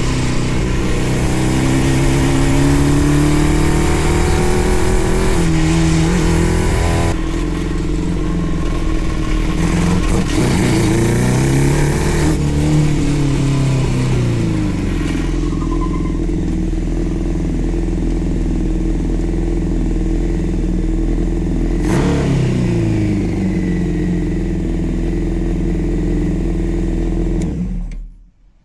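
The 600cc engine of a home-built Powerwheels go-kart, driven off road, revving up and down repeatedly as it accelerates and eases off. The sound drops away suddenly near the end.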